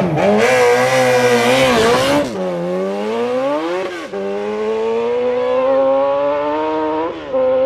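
Street-race car engine at full throttle, its pitch climbing through the gears with a sharp drop at each upshift, about four and seven seconds in. The first two seconds carry a loud hiss of noise over the engine.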